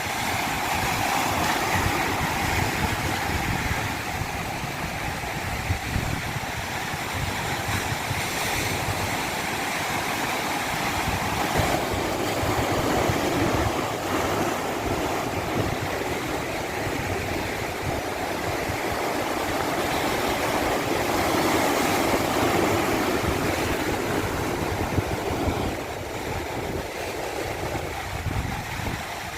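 Running water rushing steadily, its level slowly swelling and easing over several seconds.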